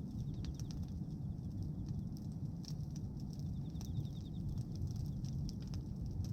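Bonfire of pruned tree branches crackling, with irregular sharp pops over a steady low rumble.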